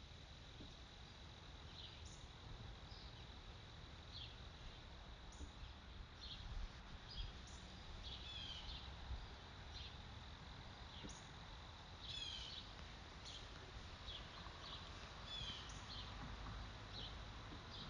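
Faint nature ambience: small birds chirping in short, quick downward notes, scattered irregularly, over a steady thin high tone and a low rumble.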